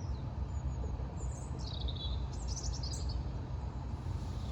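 Small birds chirping in two short bursts of song, about a second and a half and two and a half seconds in, over a steady low rumble.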